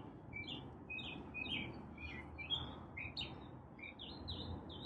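Small birds chirping: a continuous run of short, quick high chirps, several a second.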